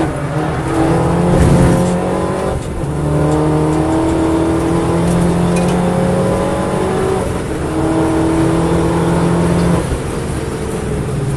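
Engine of a second-generation MINI John Cooper Works GP race car, heard from inside the cabin, accelerating hard at full throttle: the turbocharged four-cylinder's note climbs in pitch and steps down at each upshift. Near the end it drops away as the throttle lifts.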